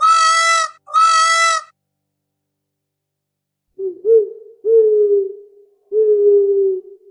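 Animal calls: two short, bright, buzzy calls one after the other, then after a pause a run of low hoots, the last two longer and falling slightly in pitch.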